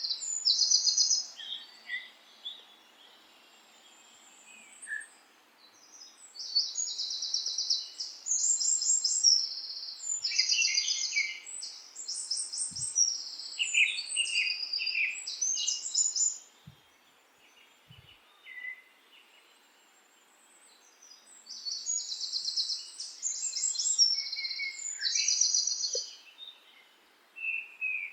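A songbird singing high, fast trilled phrases in bouts, with pauses of a few seconds between them.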